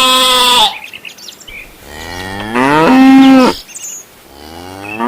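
A cow mooing twice, each call about two seconds long, rising in pitch and then held steady.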